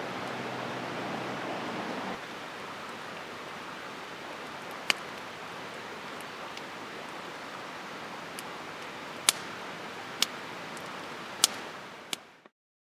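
Wood campfire burning with a steady hiss and a few sharp, scattered crackling pops; it fades out near the end.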